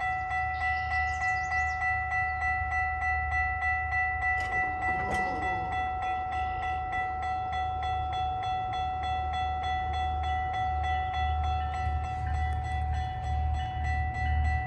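GO Transit train at a level crossing: a low pulsing rumble from the train that grows louder near the end, under a steady ringing from the crossing signal. There is a short clatter about four and a half seconds in.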